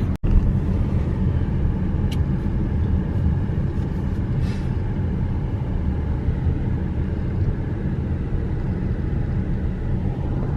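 Steady road and engine rumble inside a moving car's cabin, dropping out for an instant just after the start.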